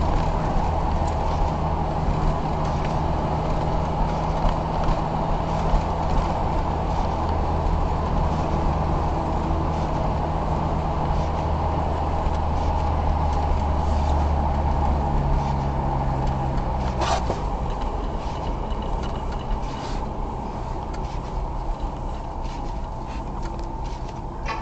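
Car engine and road noise heard from inside the cabin while driving through heavy snow, a steady drone with low engine hum. About two-thirds of the way through the engine note changes with a click and the noise eases off, as the car slows.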